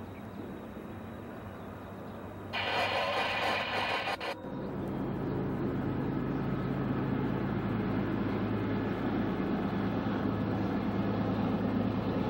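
Diesel freight locomotives rumbling inside a tunnel as they approach the portal, a steady low drone that slowly grows louder. It is preceded by a couple of seconds of loud hiss.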